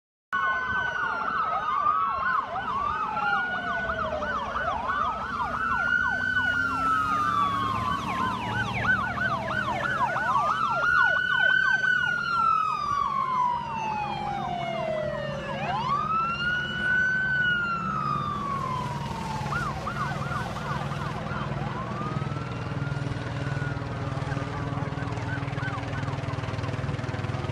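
Police car siren sounding, with a slow rising-and-falling wail overlapped by a fast warbling yelp for much of the time. A vehicle engine runs steadily beneath it.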